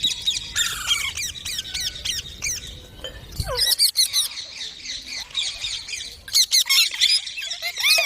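Several parakeets chirping and squawking continuously in rapid short calls, growing louder and busier about six seconds in.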